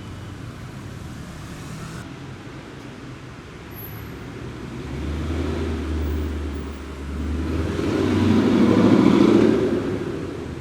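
A car driving past with its engine running, the sound swelling to a peak about nine seconds in and then fading.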